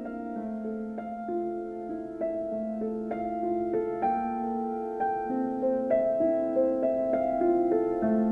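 Soundtrack music: a piano playing a slow, gentle piece of sustained notes, growing slightly louder.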